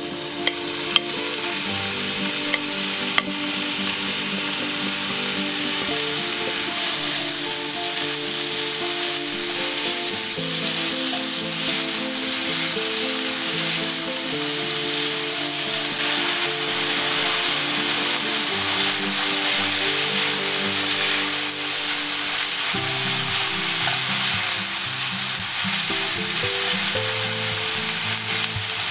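Fish cake strips sizzling in oil and soy seasoning in a frying pan, stirred and tossed with a spatula, with a couple of sharp spatula taps in the first few seconds. Soft background music plays underneath.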